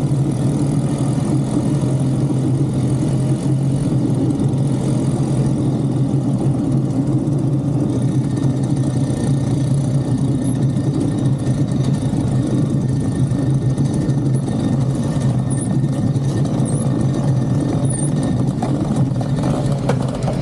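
A vehicle engine running at a steady speed: a constant low drone with road noise, unchanging throughout.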